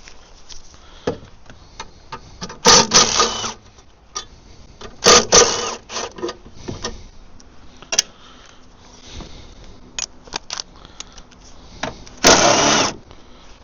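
Cordless power tool running in three short bursts, spinning out 10 mm bolts. Sharp metallic clicks of tools and bolts come in between.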